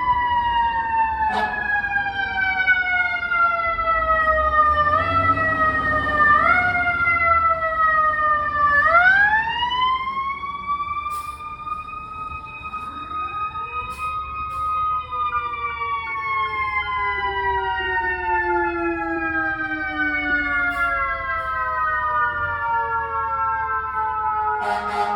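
Fire truck siren wailing in long slow falls of pitch. It gets two short bumps up, then winds sharply back up about nine seconds in, holds high, and coasts slowly down again. A second, fainter siren rises and falls in the middle, over the low rumble of truck engines.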